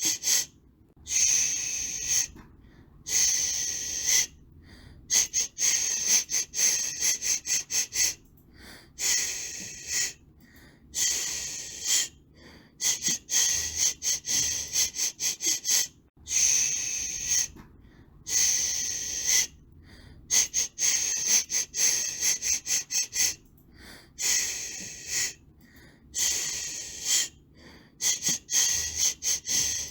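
High-pitched white-noise hiss for soothing a baby, pulsing on and off rather than running steadily: some bursts last about a second, others come in quick stuttering runs, with short silences between.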